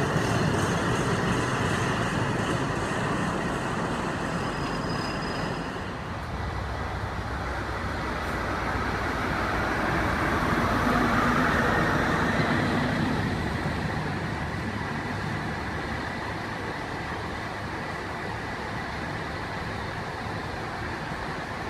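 A freight train of covered steel-coil wagons rolls past, its wheels clicking regularly over the rail joints. About six seconds in, this gives way to Network Rail's New Measurement Train passing. The diesel engine of its High Speed Train power car swells to the loudest point with a low hum, then the coaches' wheels rumble steadily along the rails.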